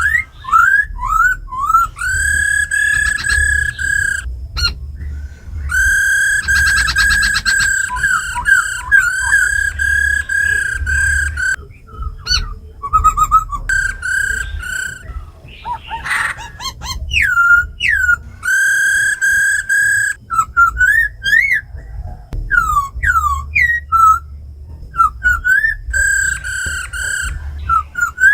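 Laughingthrushes singing: long, clear whistled notes held steady, broken by quick rising and falling slurred whistles. A buzzy trill comes about six seconds in, and a short harsh rasping call near the middle, the female's 'ro khẹt' call. A low hum runs underneath.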